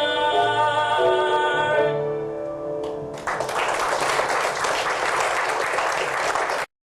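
A male singer holds the song's last note over sustained accompaniment chords, which then fade away. Audience applause breaks out about three seconds in and is cut off suddenly near the end.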